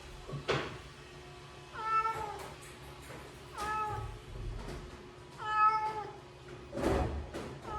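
Cat meowing repeatedly: three short meows about two seconds apart, each falling in pitch at its end, with a couple of knocks between them.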